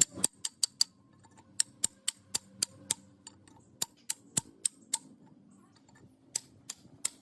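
A series of sharp clicks or taps, about three to four a second, in short runs with brief pauses between them.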